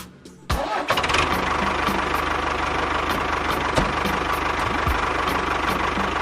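A small engine starting about half a second in and then running steadily.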